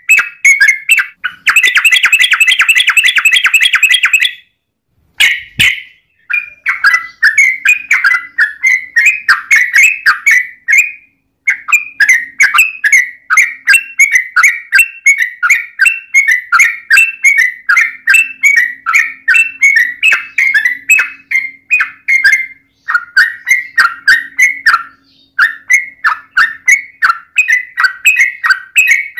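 Yellow-vented bulbul (trucukan) calling: a fast, dense trill in the first few seconds, a short pause, then a long run of quick repeated chattering notes.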